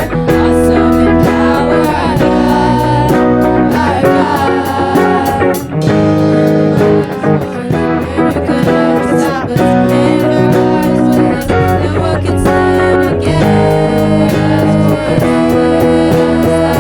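Worship song music led by guitar, with sustained chords and perhaps a voice in the mix, in a passage with no sung words.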